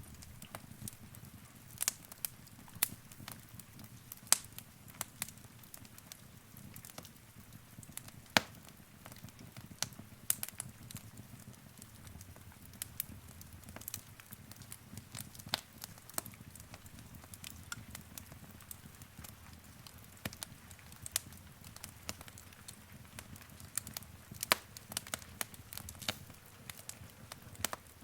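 Wood fire burning in a fireplace: a low steady rumble of the flames with irregular crackles and occasional louder sharp pops.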